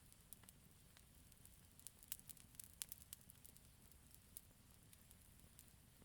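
Campfire crackling faintly, with scattered sharp pops and a quick run of louder ones about two to three seconds in, over a low steady rumble of the burning.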